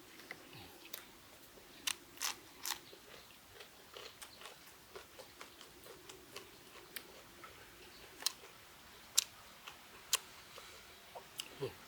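A person eating: quiet chewing and crunching with scattered sharp clicks and taps, a handful of them louder than the rest.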